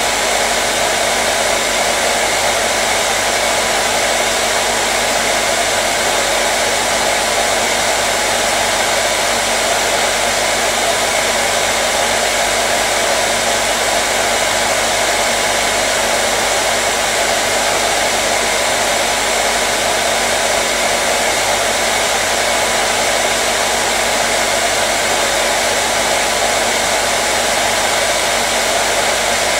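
Hair dryer running continuously at a constant setting: a steady, unchanging blow.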